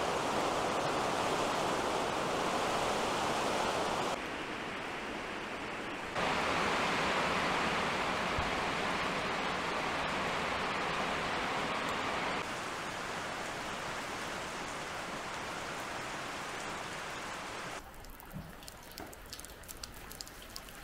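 Rain pouring down steadily, heard in several short shots that cut abruptly from one level to another. In the last few seconds it is quieter, with separate drips and splashes.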